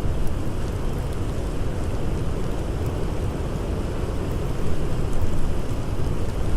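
Blizzard wind blowing steadily as a low rushing rumble, gusting up a little after about four and a half seconds, with a few faint crackles like a campfire.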